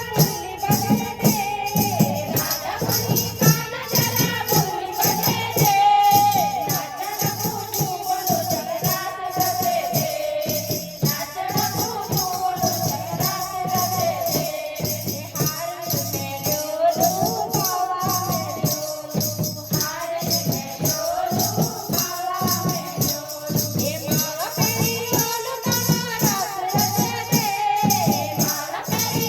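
Hindu devotional bhajan to the Mother Goddess: voices singing a sliding melody over a steady beat, with shaken percussion rattling along.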